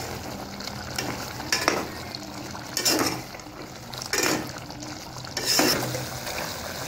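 Chicken in yogurt gravy sizzling in a metal pot over high flame while a metal spoon stirs and scrapes the pot, with four scraping strokes about a second and a half apart.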